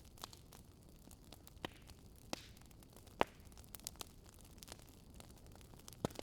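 Wood fire crackling: irregular sharp pops and snaps over a faint low hiss, with the loudest pop a little after three seconds and another close pair near the end.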